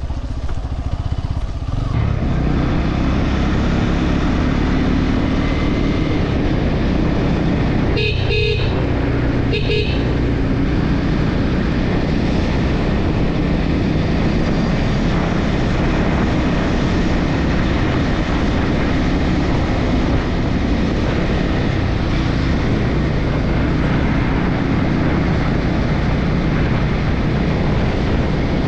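Bajaj Pulsar N250's single-cylinder engine and exhaust running steadily while riding. A vehicle horn sounds twice, about eight and ten seconds in.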